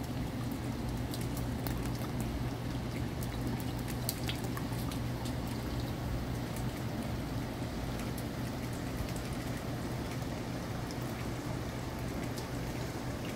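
Heavy hurricane rain falling steadily, with water pouring and dripping and many small scattered drop ticks onto a flooded balcony. A steady low hum runs underneath.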